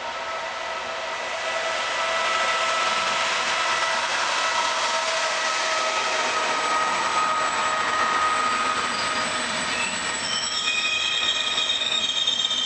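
Electric locomotive-hauled train of double-deck passenger coaches passing close by. The running noise grows louder about two seconds in, with several steady whining tones. From about ten seconds in, high-pitched wheel squeal sets in.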